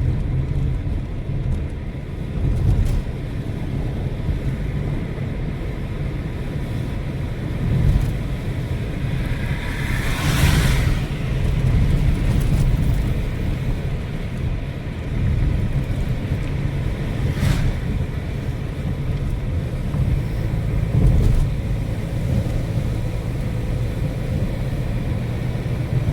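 Steady low rumble of a car driving along a road, heard from inside the car. About ten seconds in there is a brief rushing whoosh, and a short sharp tick comes some seconds later.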